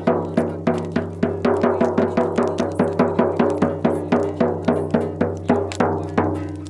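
Folk music: a drum beaten in a steady fast rhythm, about four to five strokes a second, over a low sustained drone. The drumming stops near the end.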